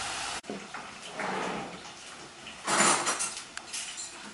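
Dishes and cutlery clattering during kitchen work, with the loudest clatter a little under three seconds in. A steady hiss cuts off suddenly near the start.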